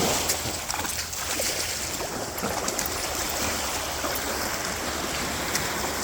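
Sea water washing on the shore, a steady rushing noise with a few faint clicks.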